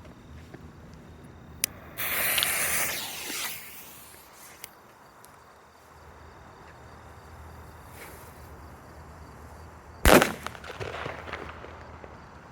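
Small consumer firework going off: a hissing spray about two seconds in that lasts a second and a half, then a single loud bang about ten seconds in, followed by a brief crackle.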